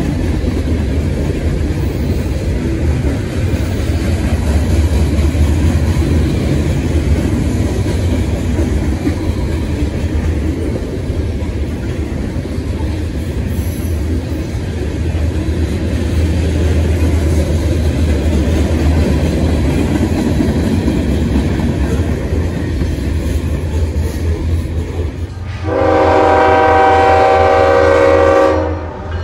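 Freight cars rolling past on the rails: a steady rumble and rattle of loaded hoppers and tank cars. Near the end a diesel locomotive's air horn sounds a loud chord of several notes for about three seconds, then stops.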